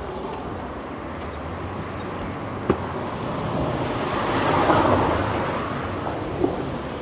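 City street ambience with a motor vehicle passing close by, swelling to its loudest about five seconds in and then fading. Two short sharp knocks, one just before the middle and one near the end.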